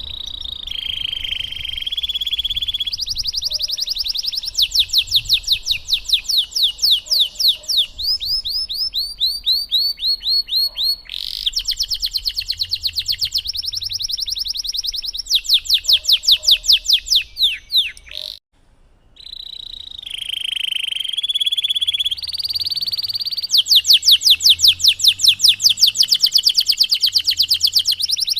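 Domestic canary singing a long song of fast rolling trills and rapidly repeated chirps. The song breaks off briefly about two-thirds of the way through, then starts again.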